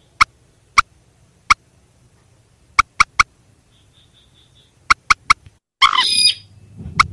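Recorded rail and crake calls used as a lure: sharp, very short clicking notes repeated at uneven intervals, about ten of them, some in quick runs of two or three. About six seconds in there is a louder harsh rasping call, and a low hum follows it.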